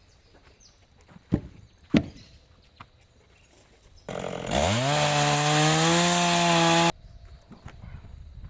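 Chainsaw revving up to full throttle and running flat out for about two and a half seconds, then cutting off abruptly. Before it, two sharp knocks come a little over half a second apart.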